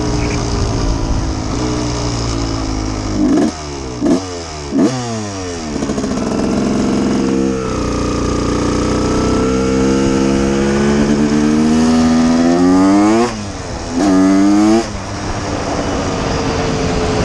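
1989 Honda CR250's two-stroke single-cylinder engine idling while warming up, blipped three times in quick succession a few seconds in. It is then revved up slowly and held at higher revs for several seconds, given one more short rev, and drops back to idle.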